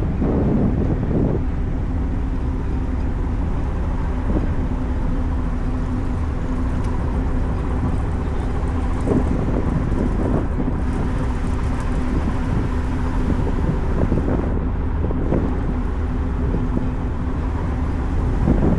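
Ferry engine drone, a steady hum, with wind rumbling on the microphone.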